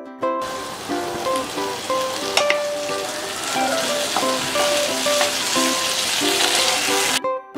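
Chopped tomatoes and onions sizzling in hot oil in a nonstick frying pan, with a spatula stirring and knocking through them. The sizzle starts about half a second in and cuts off abruptly shortly before the end.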